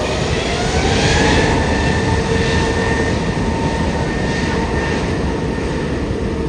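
Loud jet engine noise from a narrow-body airliner close by, with a turbine whine rising in pitch during the first couple of seconds.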